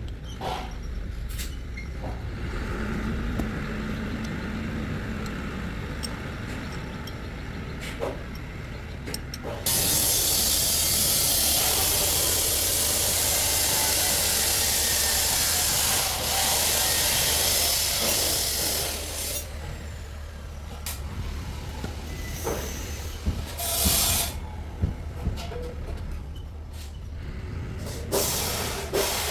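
A loud, steady hiss of a pressurised jet of air or spray, lasting about nine seconds from about ten seconds in, over a constant low hum. A few shorter hisses and knocks come near the end.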